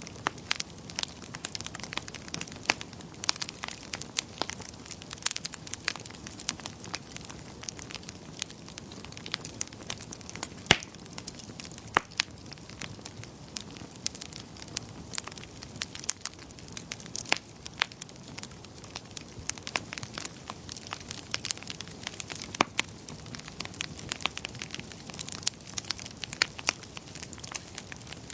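Wood fire in a fireplace crackling, with frequent sharp irregular pops and snaps over a soft steady hiss; a few pops stand out louder than the rest.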